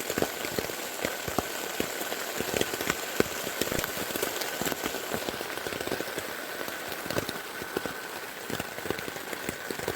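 Heavy rain falling on a tent, many separate drops ticking on the fabric over a steady wash of rain noise.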